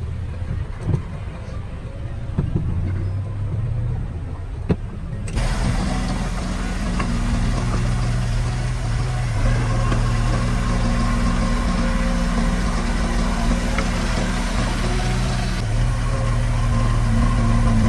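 Diesel engine of heavy earthmoving equipment running, with a few sharp knocks in the first seconds. About five seconds in the sound steps up suddenly to a louder, fuller engine drone that stays steady.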